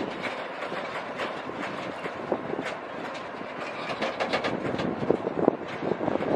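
Train moving past, its wheels clicking and knocking over the rails, with a quick flurry of clicks about four seconds in.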